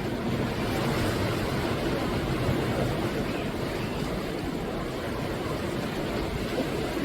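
Sea waves breaking and washing up on the shore, a continuous rush of surf that swells slightly in the first couple of seconds.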